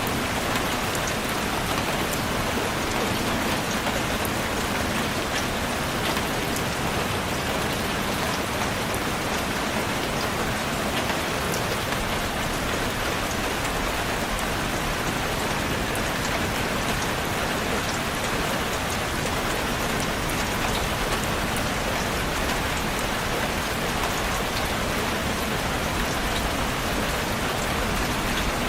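Steady, even rainfall, a dense hiss of drops with faint individual drop ticks.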